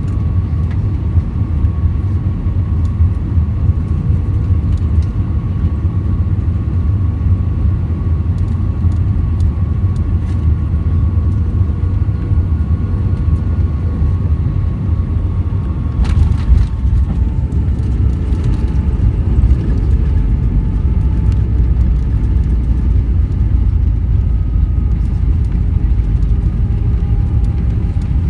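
Airbus A320 cabin noise: a steady, loud low rumble with a thin engine whine. About 16 seconds in there is a brief clatter, after which the whine drops slightly in pitch.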